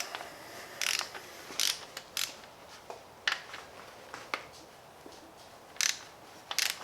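Hand tools working metal on a Gen 4 Hemi's bottom end as piston and rod number 3 are removed: about seven short metallic rasps and clicks, spaced unevenly.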